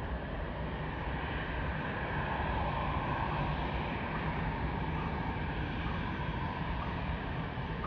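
Jet airliner engines heard as a steady, rushing noise that grows a little louder a couple of seconds in and then holds.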